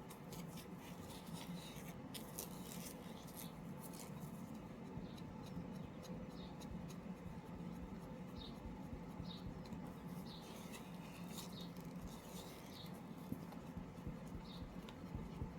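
Faint scraping and light clicking of a stir stick working pearl white mica powder into mixed epoxy casting resin in a plastic mixing cup, with a few short high squeaks scattered through.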